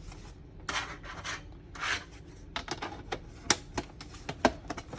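Plastic diorama wall parts being handled and fitted together: two short scraping rubs, then a quick run of sharp clicks and taps as an insert is pushed into place.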